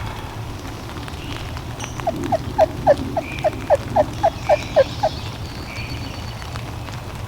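Wild turkey yelping: a run of about a dozen short yelps, each dropping in pitch, about four a second, starting about two seconds in and stopping near the five-second mark.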